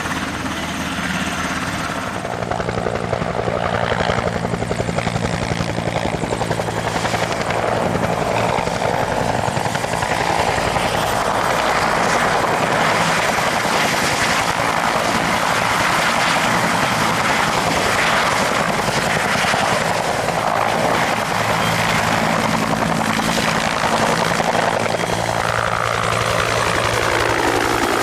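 Military Bell turbine helicopter flying a display, its two-bladed main rotor chopping rapidly over the turbine whine; it grows louder about two seconds in, and near the end the pitch falls away.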